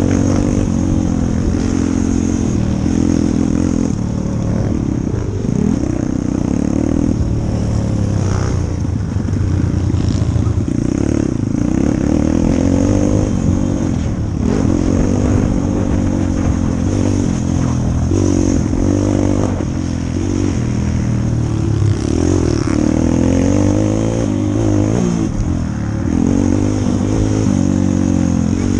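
140cc four-stroke single-cylinder pitbike engine under riding load, its pitch rising and falling again and again as the throttle is opened and closed, with some rattling from the bike.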